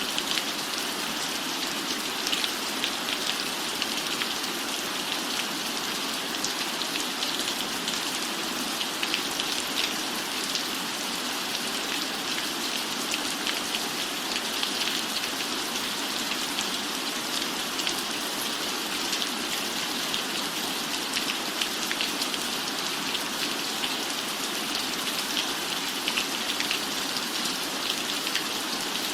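Steady rain falling on the cabin roof, an even hiss with many small drop ticks.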